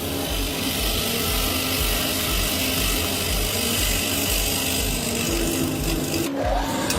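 Steady hissing of a power tool working wood, cutting off suddenly about six seconds in, over background music with a steady beat.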